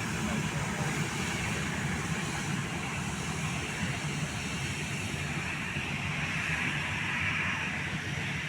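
Jet airliner engines running, a steady noise with a low rumble and a higher hiss, no breaks.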